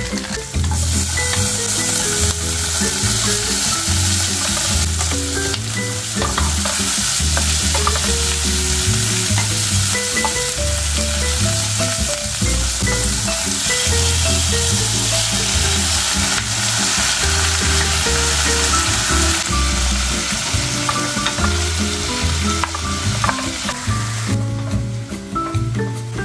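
Garlic and onion frying in butter in a pan, sizzling steadily while a spatula stirs them. The sizzle carries on as shrimp and squid go in partway through, then drops away about two seconds before the end.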